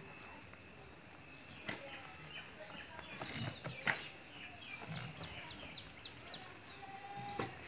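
Birds calling faintly: short rising chirps at intervals and a quick run of about six notes midway, with a few sharp clicks.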